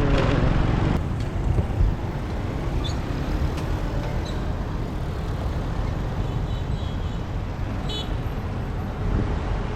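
Motorbike riding through city traffic: a steady rumble of engine, road and wind noise. A short, high chirping sound comes about eight seconds in.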